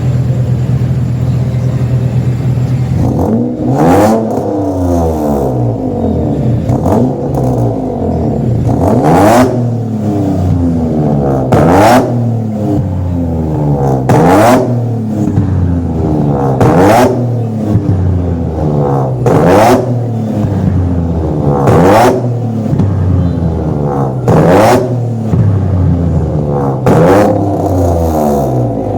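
Modified Honda Accord's engine idling for about three seconds, then revved hard about ten times, roughly every two and a half seconds. Each rev rises and falls in pitch and comes with a sharp exhaust bang as the car spits flame from its exhaust.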